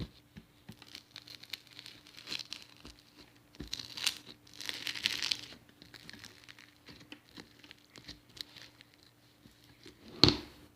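Slime being played with by hand: sticky stretching and squishing with many small crackles and pops, denser around the middle and a sharp louder pop near the end.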